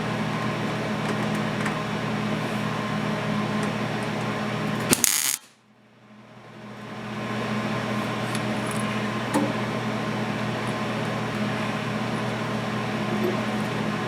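Steady electrical hum with a hiss over it. A sharp click about five seconds in is followed by a moment of near silence, and then the hum fades back in.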